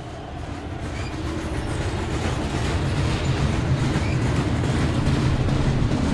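Train running, a steady rumble with wheel clicking and faint squeals that grows louder over the first few seconds, then holds.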